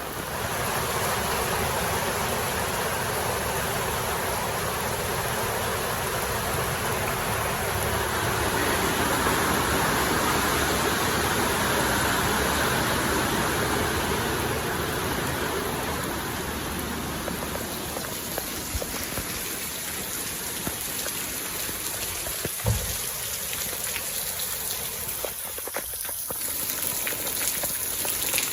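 Rain falling steadily, an even hiss that swells a little about ten seconds in, with a single short knock later on.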